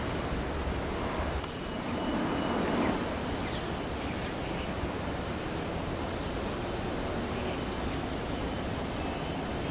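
Steady outdoor street ambience: a low rumble of vehicles with a few faint short chirps now and then.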